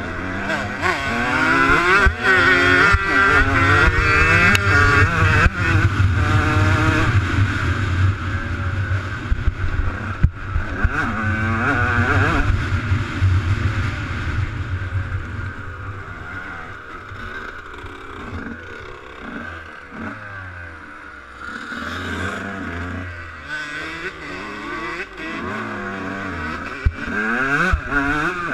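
Motocross dirt bike engine revving hard and easing off over and over, its pitch climbing and falling with the throttle. It is loudest in the first several seconds, lower in the middle, and picks up again near the end.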